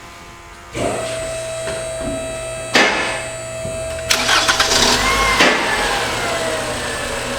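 A 2011 Toyota Camry's 2.5-litre four-cylinder engine starts about a second in and keeps running. There is a sharp knock near three seconds, and a louder burst about four seconds in whose pitch then falls back as the engine settles.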